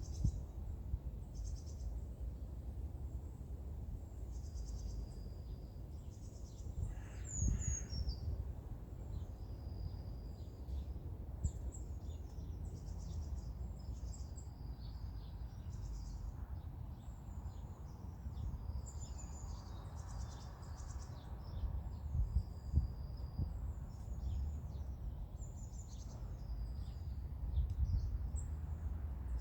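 Wild songbirds singing: short, high, thin song phrases repeating every few seconds, with a lower call about seven seconds in, over a steady low outdoor rumble.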